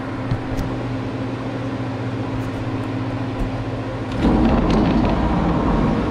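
A steady electrical hum, then about four seconds in a welding arc is struck and crackles for about two seconds: a tack weld being laid on a steel frame.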